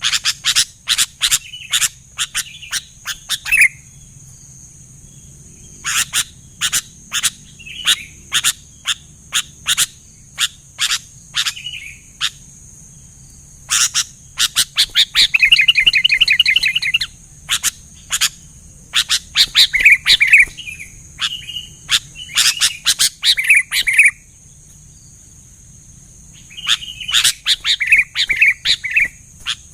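Sooty-headed bulbul singing: bouts of rapid sharp chirps mixed with short bubbling, warbled phrases, broken by pauses of a second or two.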